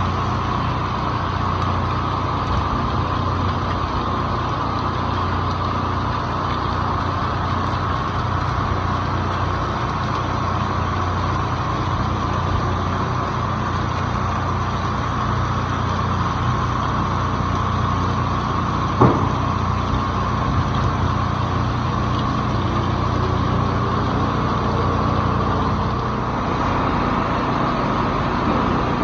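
Heavy rain as a steady, dense noise with a steady low hum beneath, and a single sharp knock about 19 seconds in.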